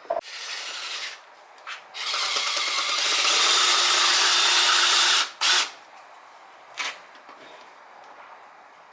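Power drill running in one steady whirring burst of about three seconds, then a short second burst, while drilling out broken-off Phillips screws that hold a minibike engine's stator.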